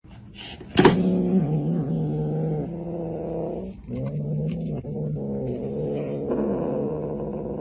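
Cat yowling: two long, drawn-out calls, the first starting about a second in and dropping in pitch, the second starting about four seconds in.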